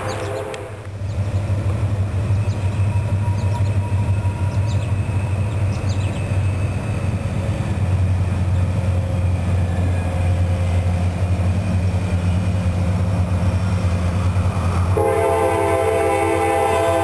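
Diesel locomotives pulling a loaded coal train, their engines running with a steady low rumble. The locomotive air horn sounds, cutting off within the first second, and blows again near the end.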